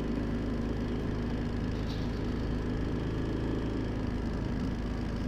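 Yamaha XT1200Z Super Ténéré's parallel-twin engine running steadily at cruising pace on the move, with road noise.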